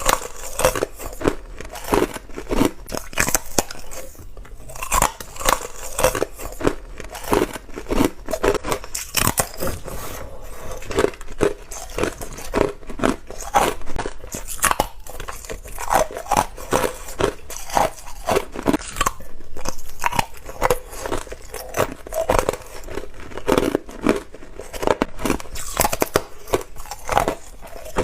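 Ice being bitten and chewed up close: rapid, repeated crunches and cracks of teeth breaking shaved and hard ice, several to a second with no pause.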